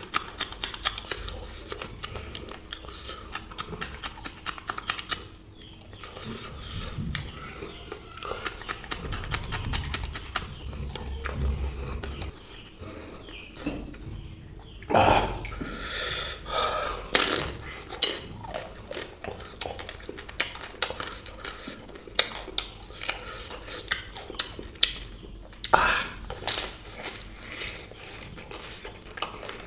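Close-miked eating: continuous wet, crackly chewing of samosa and green chillies, with louder crunches or clinks of cutlery on a plate about halfway through and near the end.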